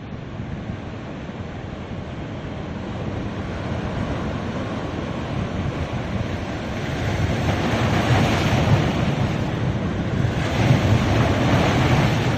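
Ocean surf breaking and washing up a beach: a steady rush of water that swells twice, about halfway through and again near the end.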